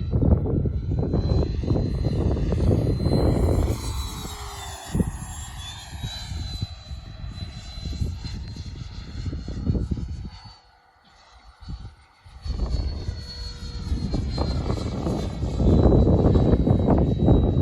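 Electric ducted-fan RC jet, a Freewing F-22 Raptor, flying overhead. Its steady high fan whine bends in pitch as it passes, under heavy rumbling wind on the microphone that fades out briefly near the middle.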